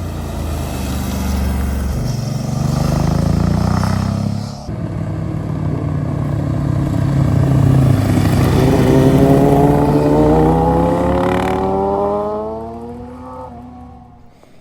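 Motorcycles passing through a bend, their engines revving as they accelerate; the loudest rises in pitch about two-thirds of the way through, then fades away near the end.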